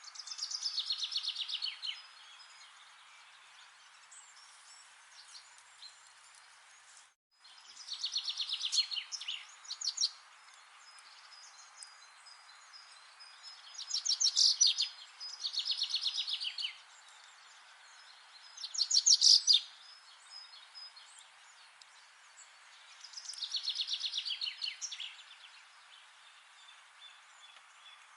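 A songbird singing short, rapid trilled phrases that fall in pitch, six of them a few seconds apart, over a steady faint hiss. The sound cuts out completely for a split second about seven seconds in.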